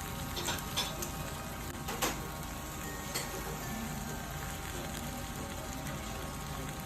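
Okonomiyaki sizzling steadily on a hot griddle, with a few light clicks in the first few seconds.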